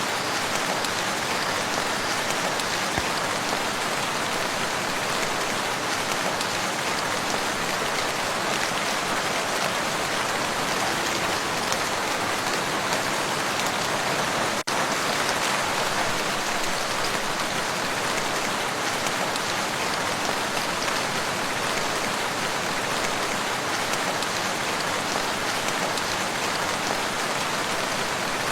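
Steady, dense rain falling on a lake's surface, an even hiss of many drops. About halfway through there is a brief dropout with a faint click.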